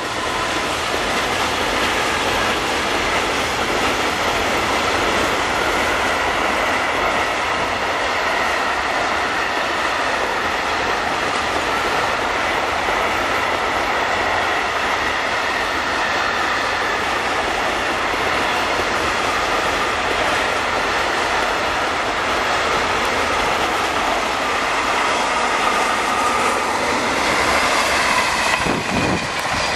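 Trains passing close by: a continuous rush of steel wheels rolling on rail, with clickety-clack over the rail joints and a steady high wheel squeal from a freight train of tank wagons. Near the end the sound changes as a TGV Duplex high-speed train passes.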